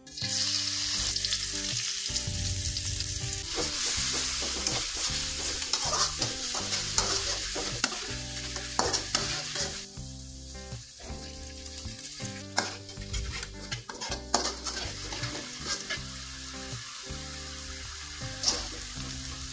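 Chopped red chillies hitting hot oil in a wok and sizzling, stirred and scraped with a metal spatula. About ten seconds in, a splash of water goes into the pan and the sizzle softens briefly, then carries on as the chilli paste cooks down.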